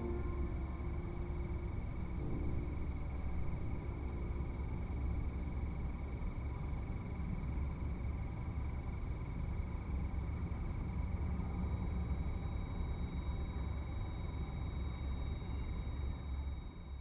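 Steady ambient noise with a deep rumble and thin, steady high-pitched hums. A faint pitched sound fades out in the first few seconds.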